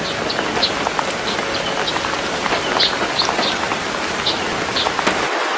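Steady rain falling on a surface, an even hiss dotted with individual drop ticks; the lower part of the sound cuts off near the end.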